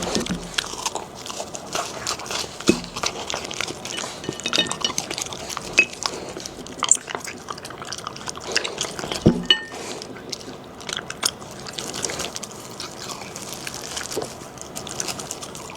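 A Shiba Inu crunching and chewing a raw meaty meal such as crunchy ostrich trachea, with irregular crisp crunches and chews and a couple of louder knocks, one near the start and one about nine seconds in.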